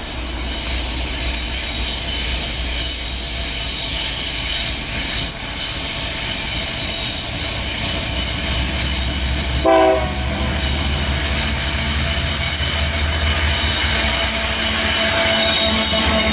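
GE AC44i diesel-electric freight locomotives approaching and passing at close range on a curve, their wheels squealing steadily and high-pitched against the curved rail over a low engine rumble that grows as they near. A short horn blast sounds about ten seconds in.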